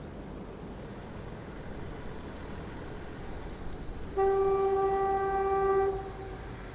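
A locomotive sounds one steady single-note toot, about four seconds in, lasting under two seconds and dying away with a short echo, over a faint outdoor background.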